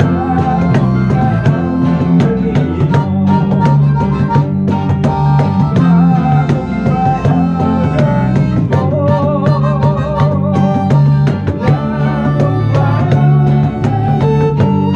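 A band playing a song in rehearsal: plucked guitar over a steady drum beat, with a held melody line that wavers in vibrato about nine to eleven seconds in.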